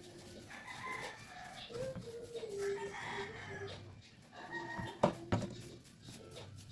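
Chickens calling in the background, with wavering clucks and drawn-out calls. Two sharp knocks come just after five seconds in.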